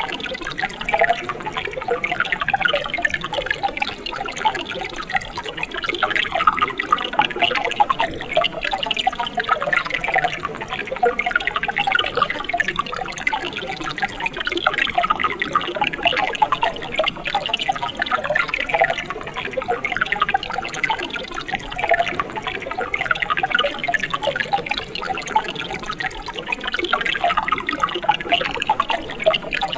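A mountain stream flowing and splashing, a steady bubbling, gurgling babble of water over rocks.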